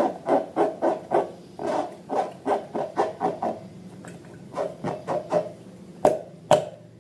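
Slime being squeezed and worked by hand: a quick run of short squishes, about three a second, then two sharp clicks near the end.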